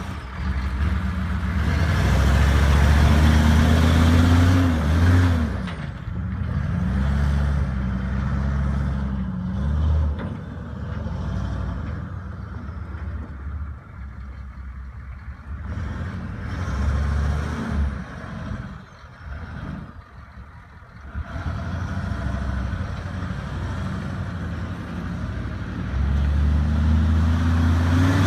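Chevrolet HD 3500 pickup truck engine running, rising and falling in pitch several times as it is revved or driven. It is loudest early on and again near the end, and drops quieter for a while past the middle.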